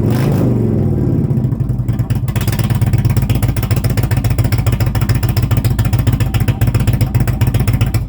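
Indian Thunder Stroke 111 V-twin motorcycle engine running through aftermarket Tab Performance Zombie exhaust baffles: the revs settle back over about the first second, then it idles with a steady, loping beat.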